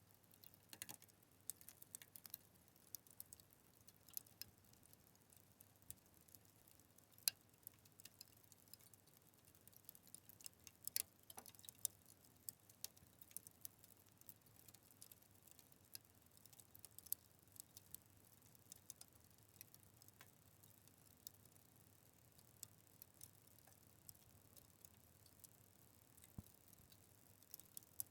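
Wood fire crackling: irregular sharp pops and snaps over a faint steady hiss, the loudest snaps about 7 and 11 seconds in.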